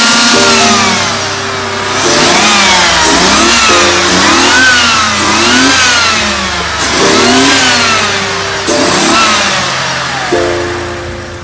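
BMW 850's V12 engine revved in a series of quick blips, its pitch rising and falling over and over. It fades off near the end.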